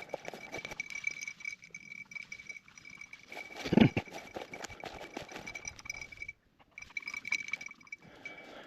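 Footsteps and brush swishing and crackling while walking through field cover, with a steady high ringing tone underneath. A loud low thump comes about four seconds in, and the sound drops out briefly about two-thirds of the way through.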